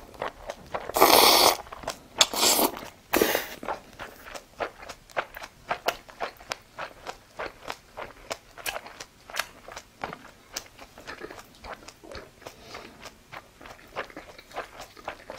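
Close-miked eating: a few loud crunching bites in the first three seconds or so, then steady chewing with several small clicks a second.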